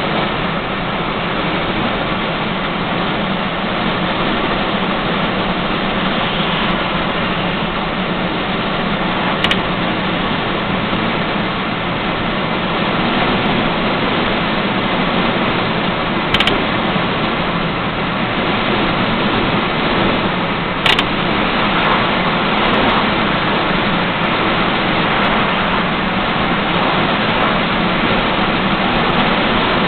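A GMC 2500HD dump truck's V8 engine running steadily while driving, heard from inside the cab along with road noise. A few brief clicks come through about a third and two-thirds of the way in.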